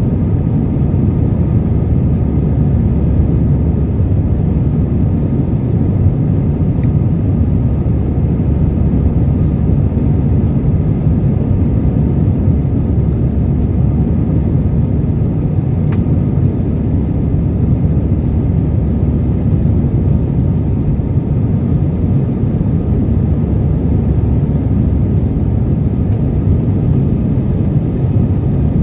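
Steady rumble of an Airbus A320's engines and airflow, heard from inside the passenger cabin, with a faint steady whine above it.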